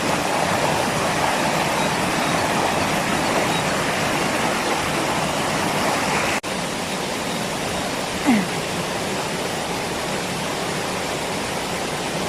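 Waterfall's rushing water, a steady even roar. It cuts out for an instant about six seconds in, and a short sound falling in pitch rises briefly over it a little past eight seconds.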